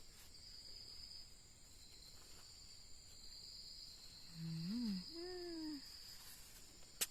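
Insects chirring in a high, steady drone that swells and breaks in long pulses every second or two. About four seconds in, a person makes a brief wordless vocal sound, and a sharp click comes near the end.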